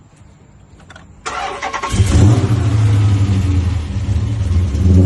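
A car's starter cranks briefly about a second in and the engine catches under a second later, then settles into a loud, steady idle.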